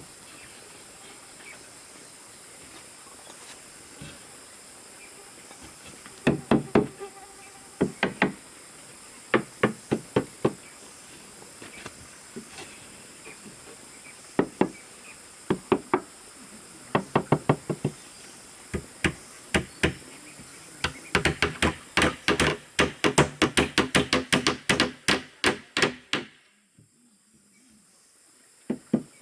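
Hammer driving nails into wood: sharp strikes in short groups of three to five, then a fast run of many blows, as when a nail is driven home. A steady high-pitched insect buzz runs underneath, and everything cuts off suddenly near the end.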